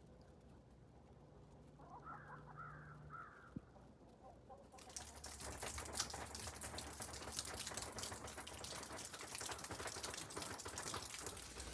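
A few soft chicken clucks about two seconds in, then from about five seconds a dense, continuous crackling of many small clicks that is louder than the clucking.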